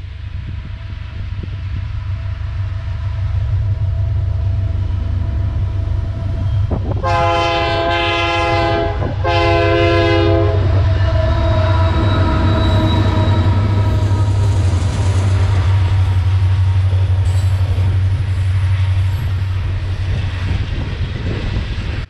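A diesel freight train rumbling past, with the lead locomotive's air horn sounding two long blasts about seven seconds in.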